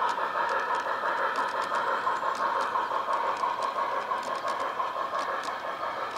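Garden-scale model train running on outdoor track: a steady whine from the locomotive's motor and gears, with irregular light clicks over the rail joints.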